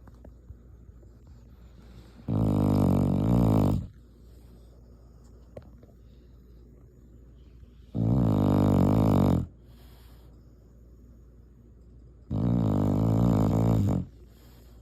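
Shar Pei dog snoring in its sleep: three loud snores, each about a second and a half long, coming roughly every four to six seconds.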